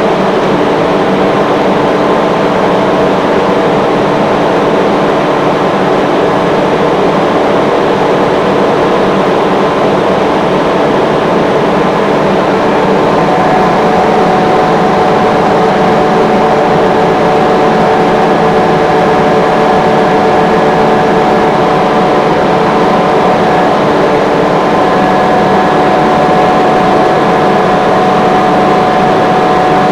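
Rotary screw air compressor running, a loud steady mechanical drone with several constant tones; about halfway through, one tone moves slightly higher.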